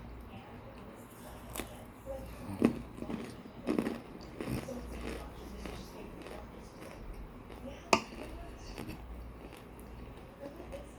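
Frozen microwave-baked chunks crunching as they are bitten and chewed close to the microphone: a few sharp cracks, the loudest about a third of the way in and again near the end, with crunchy chewing in between.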